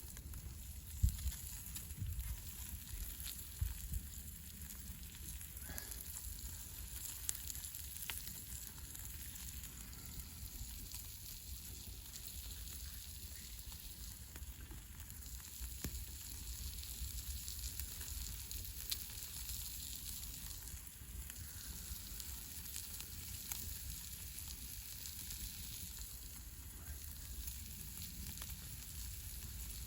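Wild boar kebab meat and bacon sizzling over a campfire: a steady hiss with scattered sharp crackles and pops.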